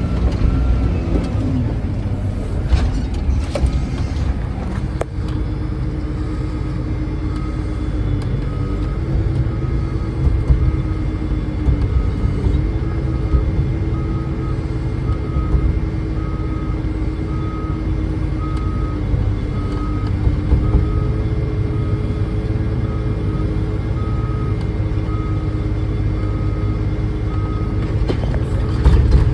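Cat haul truck's diesel engine running under load with a deep rumble, with some clattering in the first few seconds. From several seconds in, a steady tone holds over the engine and a beeping alarm sounds about once every second.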